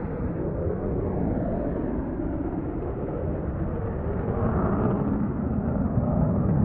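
Steady airliner cabin noise in flight: the even rush of the jet engines and airflow heard from inside the cabin.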